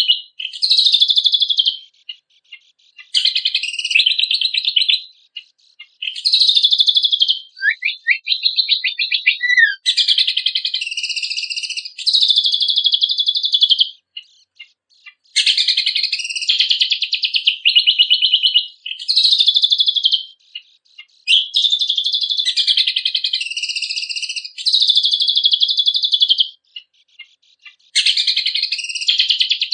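A cucak kombok (kecial kombok) songbird singing loud, high, fast trilled and warbled phrases of one to two seconds each, separated by short pauses, with a few short falling whistles partway through.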